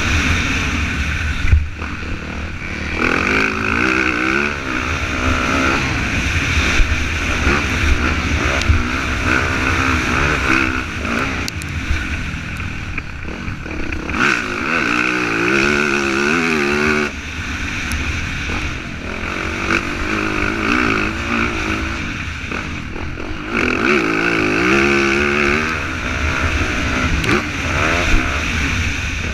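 Motocross dirt bike engine revving up and falling off again and again as it is ridden around the track.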